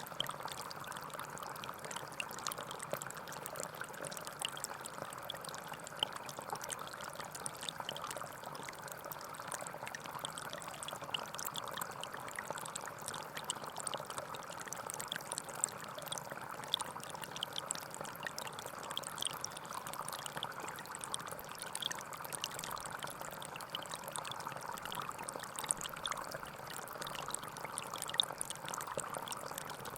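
Gentle forest stream flowing steadily, with continuous trickling and splashing water.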